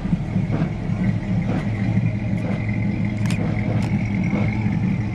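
Parade cars crawling past at walking pace, their engines making a low, steady rumble.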